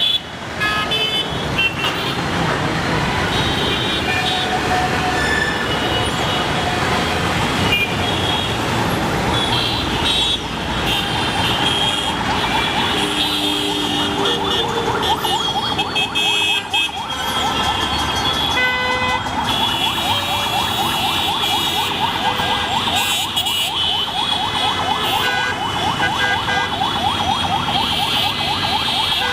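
Traffic in a jam: engines running with many short horn toots, loud throughout.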